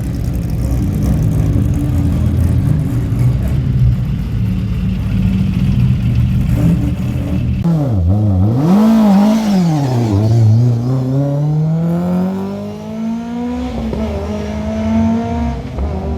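Historic rally car engine. It starts with a steady low rumble. About halfway in the sound changes suddenly: the engine revs up and down in quick blips, then pulls up through the revs in one long rise, drops at a gear change and climbs again near the end.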